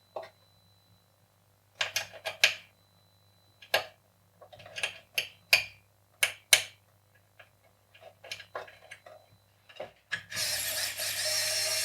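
Scattered metal clicks and knocks as a microwave oven transformer is set back into the oven's steel chassis and its screws are handled. Near the end comes a steady rasping of about two seconds as a mounting screw is driven in.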